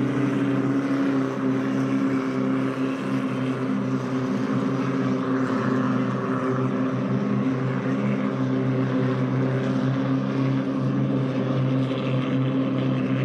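Race boat's Mitsubishi L300 engine running steadily, its pitch holding level.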